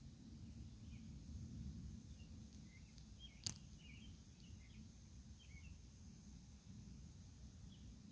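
Faint, steady low rumble with scattered faint bird chirps, and one sharp click about three and a half seconds in.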